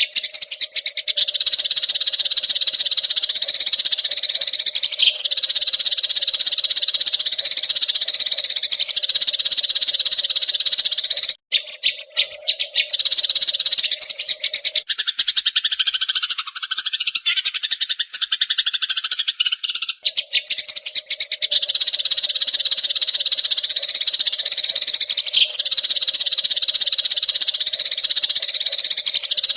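Eurasian tree sparrows chattering: a dense, unbroken stream of rapid high chirps, briefly interrupted about eleven seconds in.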